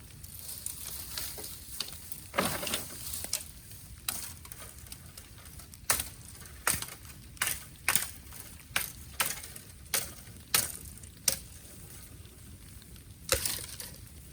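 Burning bamboo in a bonfire cracking and popping, a run of sharp, irregular cracks every half second or so over a low steady hiss.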